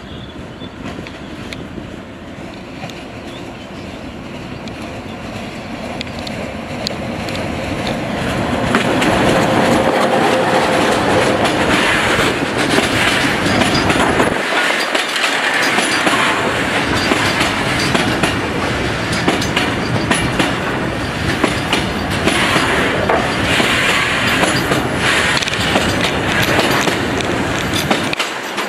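Freight train of tank wagons passing close by. Its sound grows louder over the first eight seconds or so as the locomotive approaches, then the wagons' wheels clatter steadily over the rails.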